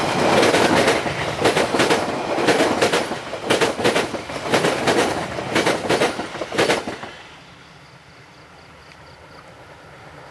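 Passenger coaches of a train passing at speed, the wheels clattering over the rail joints in paired clicks about once a second. The last coach passes about seven seconds in and the clatter drops away to a faint hush.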